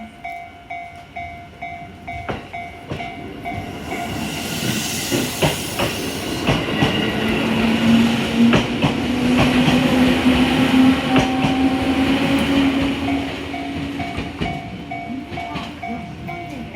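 Level-crossing bell ringing in a steady repeating pattern while a JR Tsurumi Line train passes over the crossing. The train's wheels clatter over the rail joints, and a motor hum rises in pitch. The train is loudest from about four seconds in until near the end, when the bell comes through clearly again.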